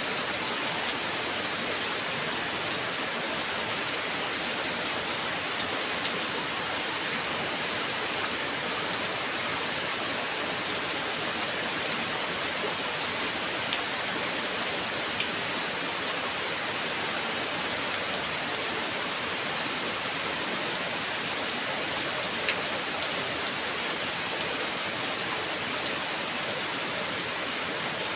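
Heavy rain falling steadily, an even hiss of rain with scattered sharper drop ticks.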